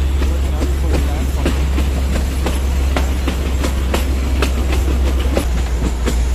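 Narrow-gauge passenger train running along the track, heard from the coach's open doorway: a steady low rumble with frequent, irregular clicks of the wheels over the rail joints.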